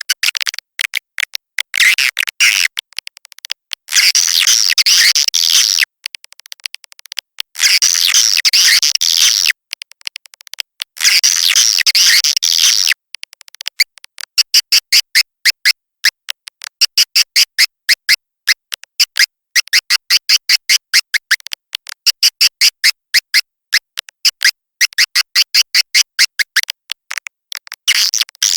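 Swiftlet lure recording of high-pitched swiftlet chirping and twittering. Dense chattering bursts about two seconds long give way, about halfway through, to quick rhythmic trains of short chirps. It is a caller sound played to draw edible-nest swiftlets in to roost and nest.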